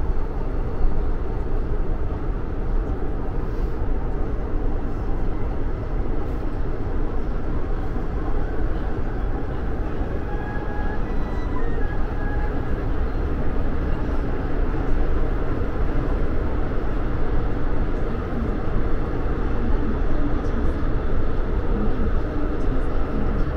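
Steady rumble of an AREX all-stop commuter train running on the rails, heard from inside a passenger car.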